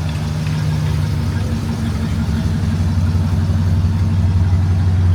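Pontiac Bonneville's engine running as the car pulls out of the lot, a steady low note that grows slowly louder.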